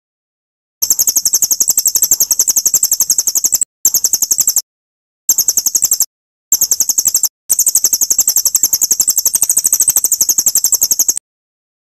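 A songbird's high-pitched trill of rapid, evenly repeated notes, in several bursts broken by short gaps. It is played as a masteran recording for tutoring a murai batu.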